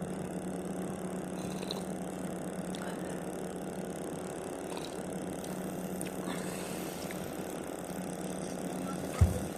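Steady vehicle running noise, an engine-and-road hum at an even pitch, with one sharp thump near the end.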